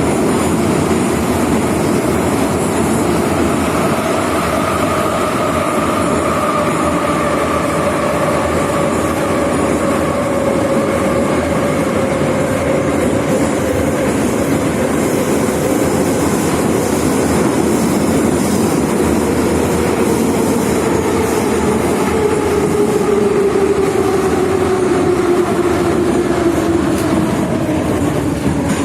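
Moscow metro 81-717/714 train running, its traction motor and gear whine falling slowly in pitch as the train slows, over steady wheel and running noise.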